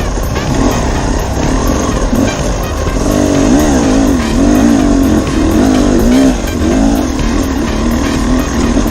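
Dirt bike engine running under changing throttle, its pitch rising and falling over and over, with a low wind rumble.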